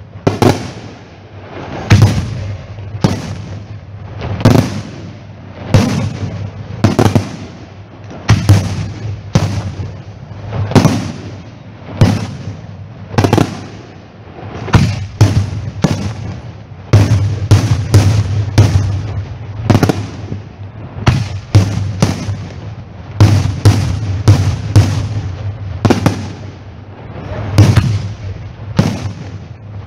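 Fireworks going off in a long, uneven string of loud bangs, one or more a second, each with a short echoing tail; the bangs come thicker in the second half.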